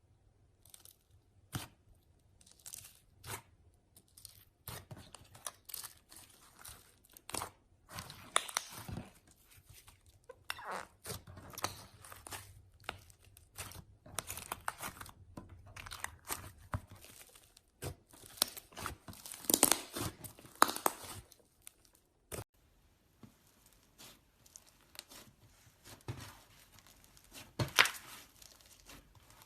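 Slime being squeezed and stretched by hand, making irregular crackles, clicks and pops. The crackling comes in busier, louder spells about a third and two-thirds of the way through, and is sparser in between.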